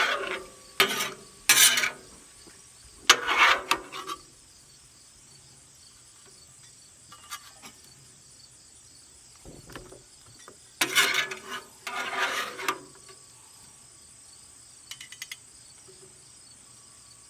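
Metal spatula scraping browned ground beef across a steel griddle top into an aluminum pan, in several short scrapes: a cluster near the start, a long quiet stretch, then a couple more later. A steady high buzz of insects runs underneath.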